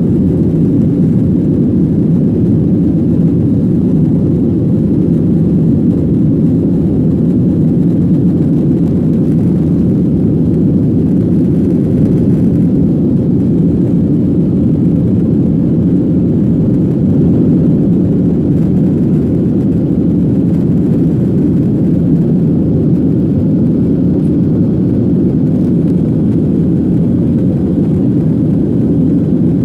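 Steady, unchanging cabin noise inside a Boeing 737-800 in flight after takeoff: the low, even sound of its CFM56-7B turbofan engines and the airflow along the fuselage.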